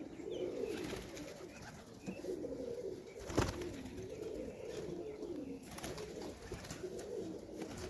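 Domestic highflyer pigeons cooing continuously in a loft, with one sharp tap about three and a half seconds in.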